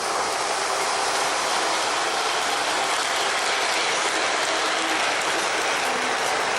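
O-gauge model train running around its track: a steady rattling clatter of wheels on the rails and the locomotive's motor and gears, with no break.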